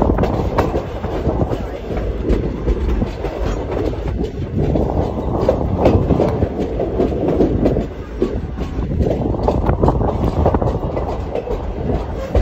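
Passenger coach of a moving train heard from an open window: a steady rumble and rattle with wheels clicking over the rails, the noise swelling and easing every few seconds.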